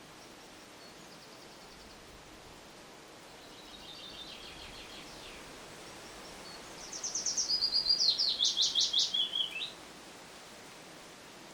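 Songbirds singing: a faint trill about four seconds in, then a louder song of rapid repeated high notes from about seven to nearly ten seconds in, over a steady background hiss.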